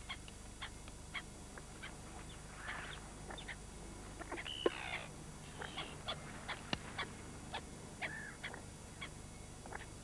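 Faint, scattered short calls of ducks and other birds, a few chirps and quacks spread through, with one longer falling call near the middle.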